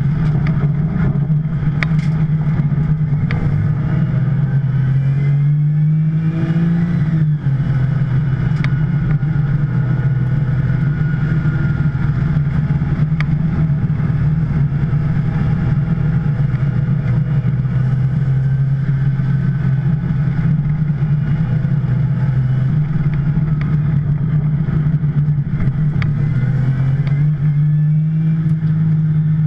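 2010 Porsche 911 Turbo's twin-turbo flat-six running hard at racing speed: the engine note climbs for a few seconds, drops sharply about seven seconds in, holds fairly steady, then climbs again near the end.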